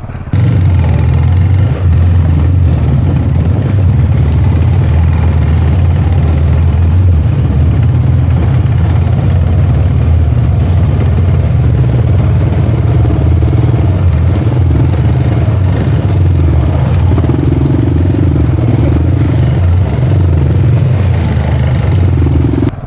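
Motorcycle engine running steadily under way, loud, with a heavy low rumble.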